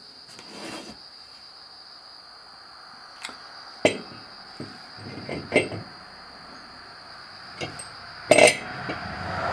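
Several separate metal clinks and clanks as steel disc-harrow coulters, washers and spacers are handled and slid onto the gang shaft, the loudest a double clank near the end.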